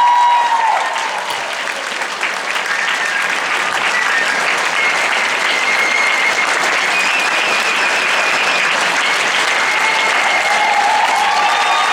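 Theatre audience applauding steadily, with a few voices calling out over the clapping near the start and near the end.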